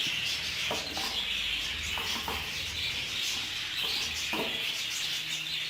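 Budgerigars chattering and chirping steadily, over the soft hiss of a small phone-powered fan blowing husks off birdseed.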